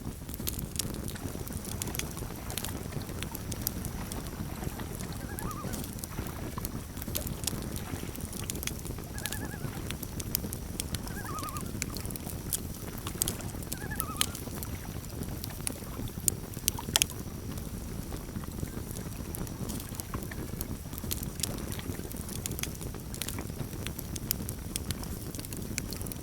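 Campfire crackling: a steady low rumble of burning with frequent sharp pops and snaps, the loudest a little past the middle. A few faint short bird calls now and then.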